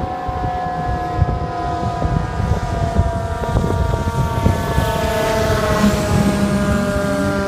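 Fire truck siren winding slowly down in pitch, then starting to rise again about six seconds in, over the rumble of the moving apparatus.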